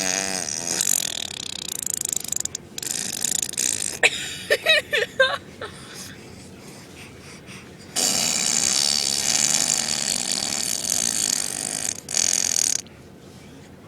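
Mouth-made fart noises, several hissy, buzzing raspberries blown through the lips, the longest lasting about four seconds near the end. A few short, high-pitched vocal squeaks come in the middle.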